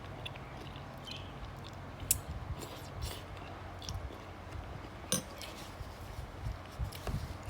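Someone eating a bowl of boat noodles: soft chewing, with a few sharp clinks of cutlery against the bowl about two and five seconds in, over a steady low hum.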